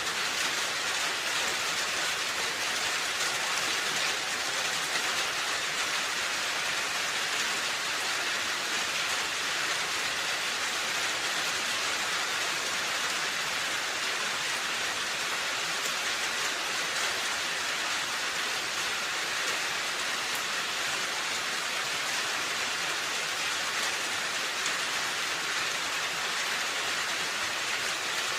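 Steady rain falling on a roof, an even hiss of drops with no change in intensity.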